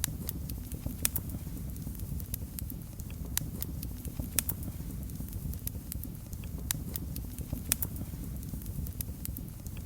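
Fireplace wood fire crackling: irregular sharp pops and snaps over a steady low rumble.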